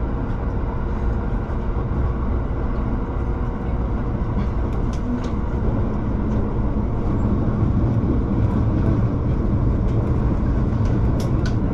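Shinano Railway SR1 series electric train running along the line, heard from inside the driver's cab: a steady low rumble of motors and wheels on the rails, with a few faint clicks about halfway through and again near the end.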